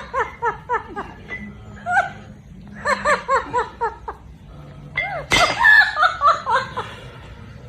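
Laughter in rapid ha-ha-ha runs, coming in several bursts. About five seconds in a sudden sharp noisy burst sets off the loudest run of laughs.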